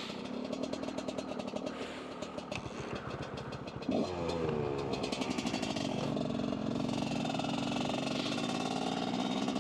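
Dirt bike engine running under way. About four seconds in it gets louder and its pitch slides down, then it runs steadily.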